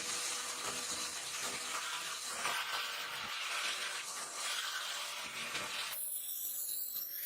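A small electric power tool running with a steady hiss of abrasive work on the steel of a knife being made from a bearing. About six seconds in the lower part of the sound drops away, leaving only a thin high hiss.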